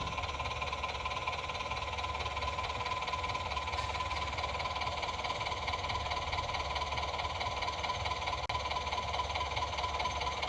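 A small motor running steadily with a constant whine over a low rumble, with a brief break about eight and a half seconds in.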